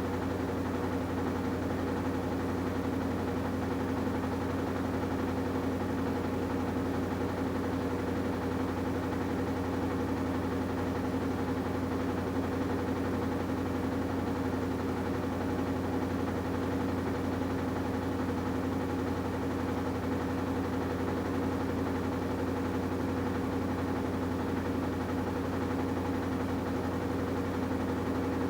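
AQUA washing machine with a direct-drive inverter motor running steadily, a constant motor hum with a few fixed tones and no change in pace.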